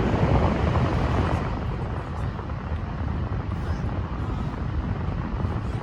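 A small fan blowing close to the microphone: a steady rumble of air buffeting.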